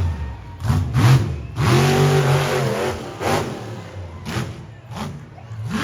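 Monster truck engine revving hard in repeated short blips, with one longer rev about two seconds in.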